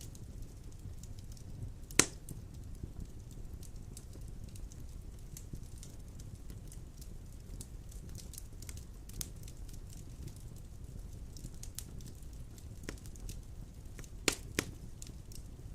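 Wood fire burning in a fireplace, with a low steady rumble and frequent small crackles. A loud pop comes about two seconds in and two more close together near the end.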